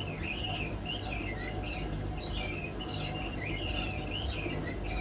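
Hotpoint WMA32 washing machine drum turning with a steady low rumble and repeated high squeaks several times a second. The drum is rubbing against the bearing seal because the drum bearings are practically gone.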